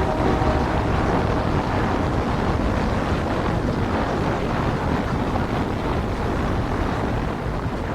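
Steady, loud rushing noise of wind and flowing floodwater, with no distinct events.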